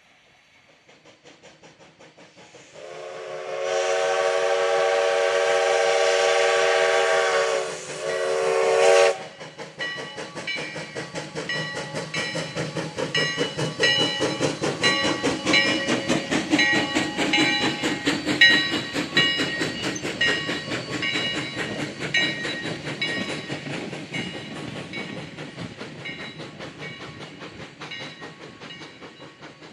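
Steam whistle of Sierra No. 3, a 4-6-0 steam locomotive, sounding one long blast and then a short one. The locomotive then runs by with rapid exhaust beats and wheels clicking over the rail joints, loudest in the middle and fading toward the end.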